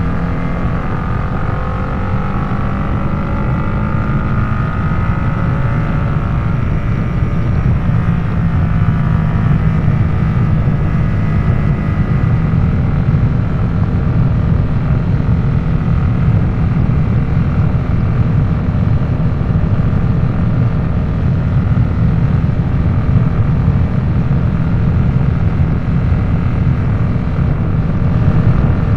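Harley-Davidson Nightster's V-twin engine running under way through a Jekill & Hyde adjustable-valve exhaust: a steady, loud low rumble. The engine pitch shifts in the first few seconds, then holds fairly even.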